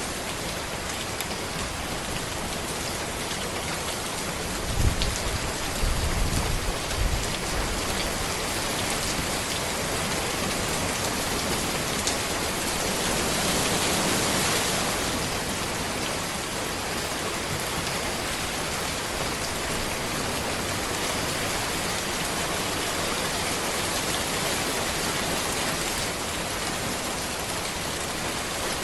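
Steady rain falling on a road, an even hiss of drops. A few low rumbles come about five to seven seconds in, and the rain swells briefly louder near the middle.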